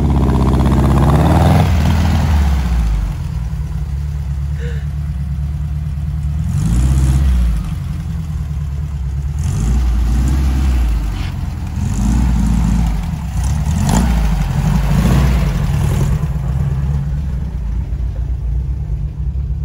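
Air-cooled Volkswagen flat-four engine of a 1969 Barris Mini T dune buggy running and being revved, its note rising and falling in about five surges.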